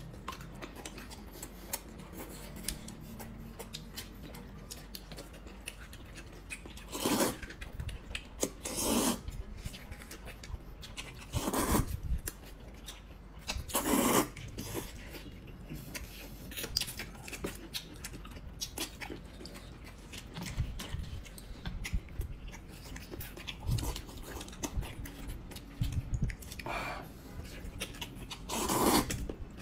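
Eating sounds: chewing and gnawing on pig's trotters, with a few short, louder bursts scattered through.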